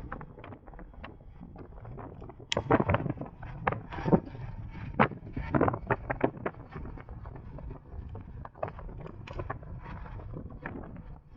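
Wind rushing over the microphone on a moving electric motorcycle, with no engine sound, and irregular sharp clicks and knocks that cluster between about two and six seconds in.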